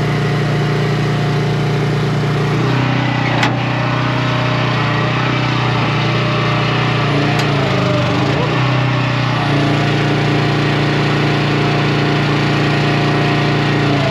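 An engine running steadily, its pitch stepping slightly a few times, with a sharp click about three seconds in.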